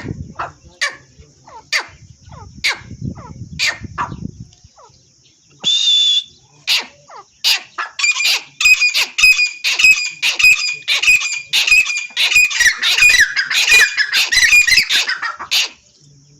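A pair of teetar (francolins) calling: sharp separate calls at first, then from about eight seconds in a fast, unbroken run of loud calls lasting about eight seconds.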